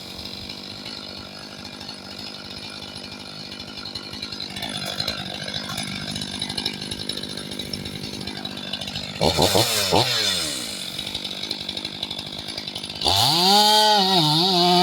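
Stihl MS 500i fuel-injected two-stroke chainsaw idling, blipped to high revs twice about two-thirds of the way in, then opened to full throttle near the end, its pitch wavering as it loads up in the hardwood cut.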